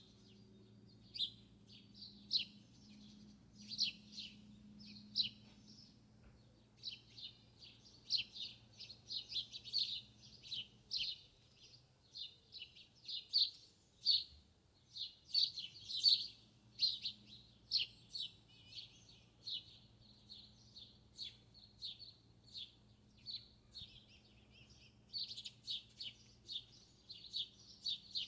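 Small birds chirping: a dense run of short, high chirps, several a second and uneven in loudness, over a faint steady low hum.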